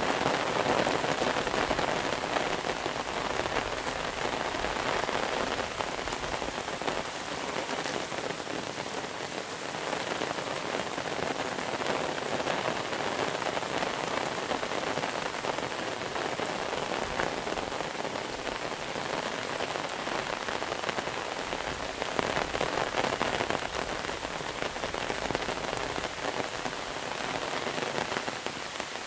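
Monsoon rain falling steadily, a dense spread of drops hitting surfaces, swelling slightly in strength now and then.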